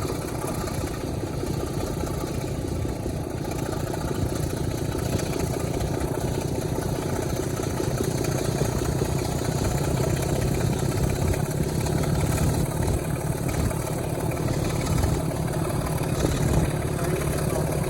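Diesel locomotive engine running steadily, growing a little louder through the first half.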